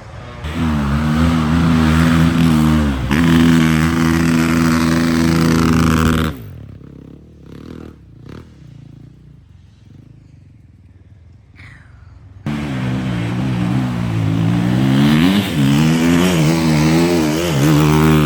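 Motocross motorcycle engines revving loud, pitch rising and falling with the throttle, in two spells with a quieter stretch of about six seconds between them.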